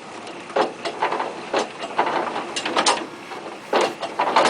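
Tractor-powered hydraulic log splitter with a four-way wedge at work: a string of irregular cracks and knocks over a steady mechanical noise as wood is forced through the wedge.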